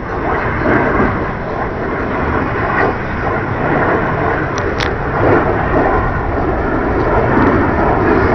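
B-2 Spirit stealth bomber's four jet engines rumbling loudly as it flies over, a steady wide roar of noise that swells in places.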